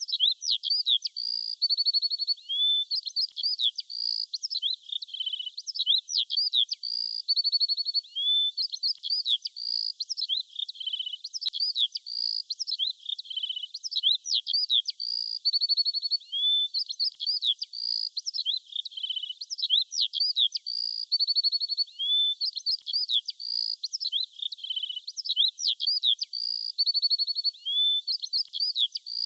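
Small songbirds chirping and trilling continuously in a busy, high-pitched chorus of quick notes, short glides and rapid buzzy trills. The same phrases recur every few seconds.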